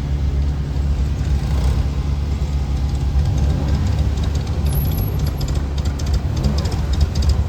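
Car engine idling with a steady low rumble. From about halfway, a rapid run of faint high clicks joins in.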